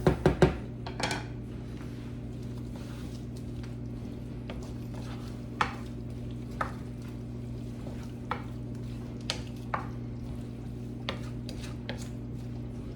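A spoon clanking against a pot while stirring rice: a few loud knocks at the start, then scattered light clinks every second or so over a steady low hum.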